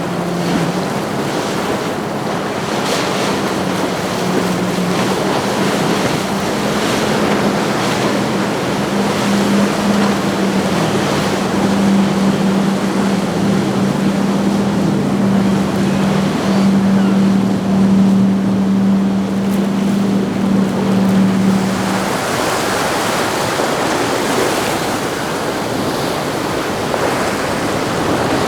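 Lazzara 84 Fly motor yacht's inboard engines running with a steady low drone that grows louder as it passes, over surf and wind noise on the microphone. The drone cuts off about three-quarters of the way through, leaving only waves and wind.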